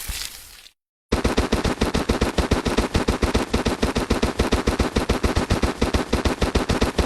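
A hissing sound ends just under a second in. About a second in, a fast, even run of heavy pounding blows starts suddenly, about ten a second, in the manner of a jackhammer or rapid-fire hammering.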